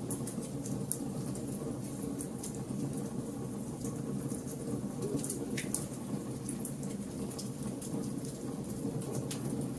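Campfire of burning wood logs crackling: frequent sharp snaps and pops over the low, steady sound of the flames.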